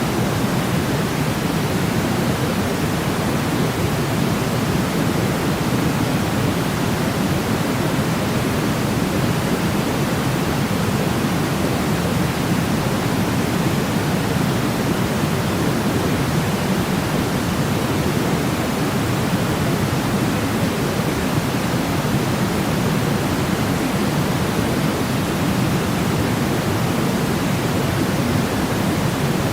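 Steady sleep noise: a continuous, unchanging hiss weighted toward the low end, like pink noise.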